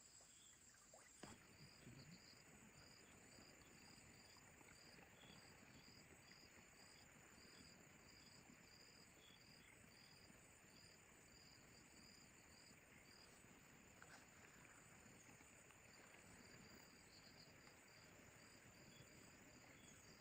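Faint insects chirping: one repeats a short high chirp about twice a second, then stops about two-thirds of the way through, over a steady thin high insect drone.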